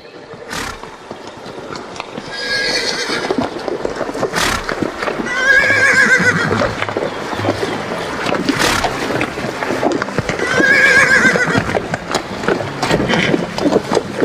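An animal's calls: three wavering, high-pitched cries a few seconds apart, with sharp knocks and scuffing between them.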